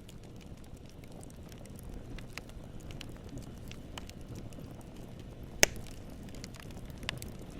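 Campfire burning with a steady low rumble and scattered crackles, with one loud wood pop about five and a half seconds in and a smaller one near the end.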